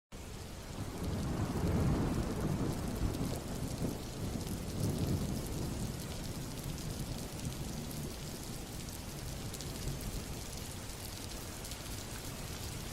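Steady rain with a low rolling rumble of thunder that swells and fades over the first few seconds, then continuous rainfall.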